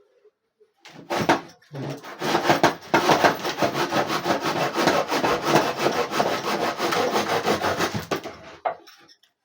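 Quick back-and-forth rubbing on wood during a table repair, rasping like sanding or sawing. It starts with a short stroke about a second in, then runs as many quick strokes until it stops near the end.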